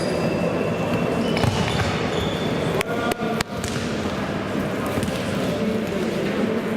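Futsal being played in a sports hall: the ball is struck and bounces, with players' voices in the background and a quick cluster of sharp knocks about three seconds in.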